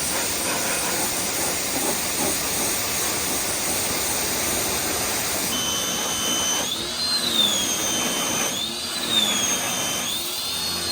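Water spraying hard onto a dirt bike while degreaser is rinsed off, a steady hiss. About halfway through, a high whine starts that rises and falls about three times.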